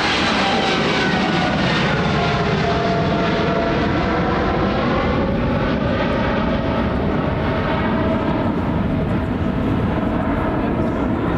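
Jet airliner on landing approach passing low overhead: loud, steady jet engine noise with whining tones that fall in pitch as it goes by, the high hiss thinning out over the second half as it moves away.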